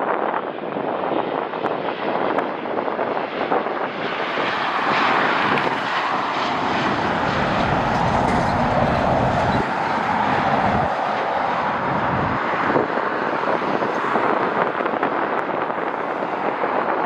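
Jet airliner's engines, a steady noise that swells about a quarter of the way in and eases after the middle.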